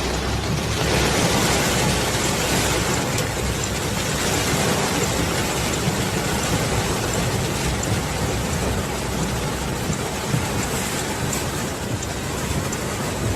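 Hurricane rain and wind: a steady, loud rush of heavy rain with a low, shifting rumble underneath.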